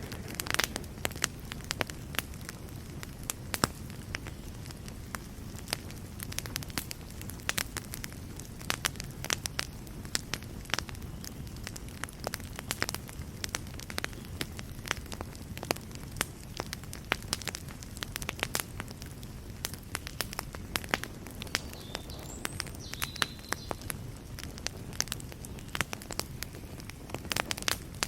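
Fireplace fire burning steadily with a low rumble, crackling and popping in sharp, irregular snaps.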